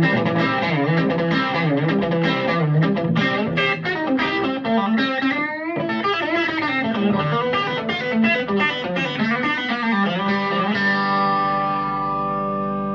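Electric guitar played through a Vintage Sound Amp with a little overdrive: a quick run of notes and chords, then a chord struck about eleven seconds in and left ringing.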